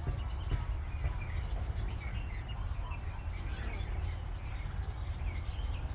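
Several birds chirping and calling in short scattered notes over a steady low rumble.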